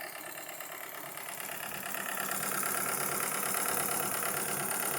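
Wilesco D32 toy live steam engine running steadily, a fast even chuffing and ticking of the small cylinder and drive. It grows louder, with more hiss, about two seconds in.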